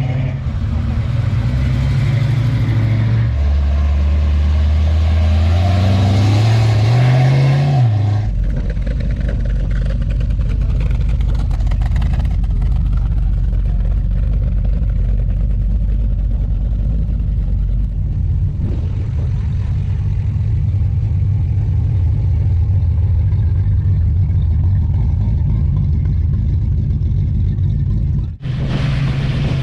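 Engines of classic and muscle cars driving out one after another: a low engine note climbs in pitch as a car accelerates away, then other cars rumble steadily as they roll past. The sound changes abruptly about eight and eighteen seconds in, as separate shots are joined.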